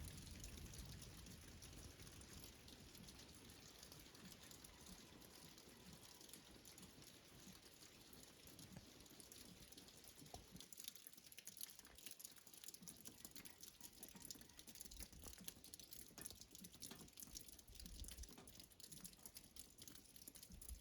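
Faint patter of scattered raindrops from a mountain thunderstorm, the drops getting denser about halfway through.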